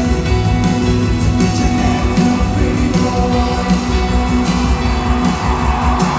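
Live rock band playing an instrumental stretch of a song, with electric guitar, bass and a steady drum beat, heard in an indoor arena. Crowd noise swells in near the end.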